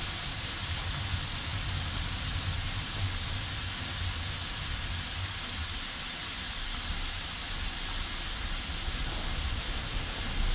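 Train standing or moving slowly: a steady hiss over a low rumble, with no chuffs or clear strokes.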